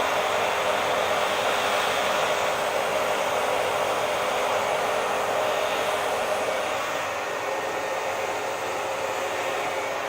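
Hair dryer running steadily: an even rushing of air with a faint steady hum, which eases slightly about two-thirds of the way through.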